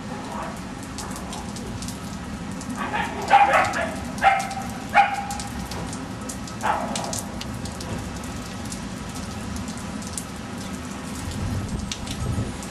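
Kasteliotis puppy giving a quick run of short, high yelps about three seconds in, then one more a couple of seconds later. A steady patter like rain runs underneath.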